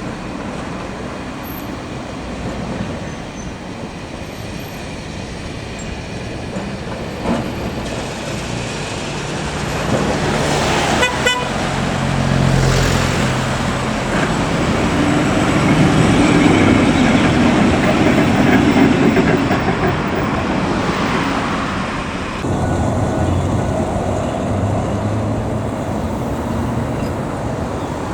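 Blackpool heritage tram running past, its running rumble swelling and then easing off. About eleven seconds in there is a brief, rapidly repeated warning signal from the tram.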